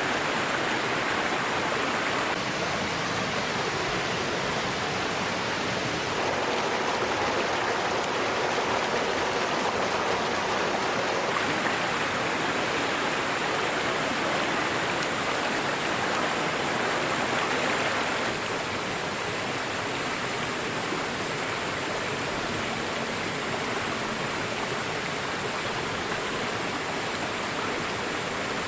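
Steady rush of flowing river water, turning a little quieter about two-thirds of the way through.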